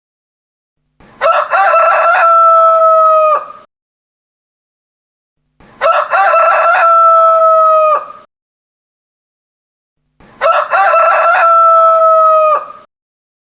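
Rooster crowing three times, about four and a half seconds apart; each crow lasts about two and a half seconds and ends on a long held note that drops off sharply. The gaps between crows are dead silent.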